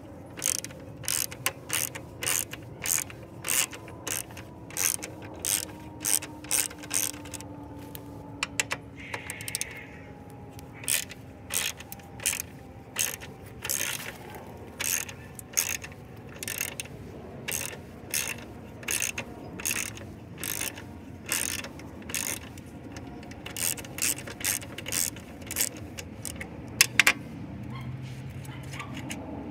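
Ratchet wrench clicking as it is swung back and forth, about two strokes a second in runs with short pauses, while loosening the radiator mounting bracket bolts. A single sharper click near the end.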